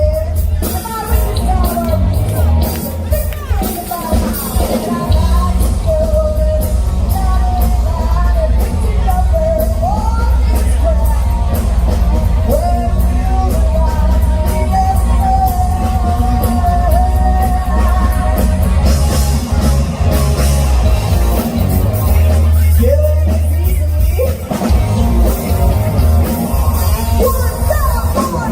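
Live rock band playing with heavy bass, drums and a sung lead vocal, amplified through a PA in a big room.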